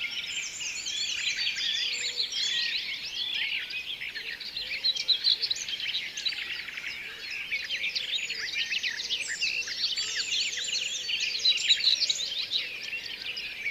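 A dense chorus of many birds chirping and singing over one another, with short, quick, high calls that never pause.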